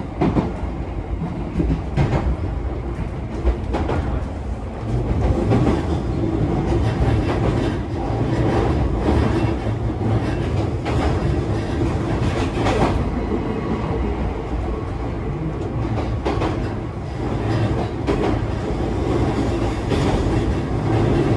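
Inside a JR East E131-1000 series electric train under way: a steady rumble of wheels and running gear, with sharp clicks now and then as the wheels pass rail joints.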